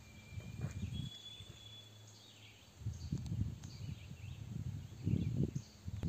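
A songbird whistles two long, clear, steady notes, the second higher than the first, then gives a few faint short chirps. Bursts of low rumbling noise come and go through the second half and are the loudest sound.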